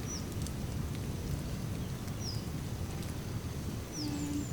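Short, high, descending bird chirps, three of them about two seconds apart, over a steady low rumble.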